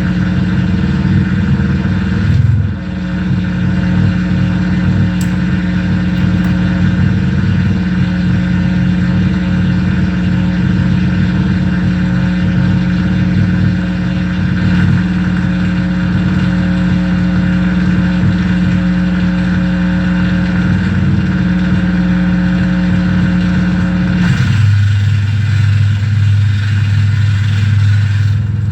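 Noise rig of mixer feedback through reel-to-reel tape reverb and bass, holding a loud, steady low drone with layered hum and hiss. The drone briefly dips about two seconds in and shifts abruptly to a deeper drone near the end.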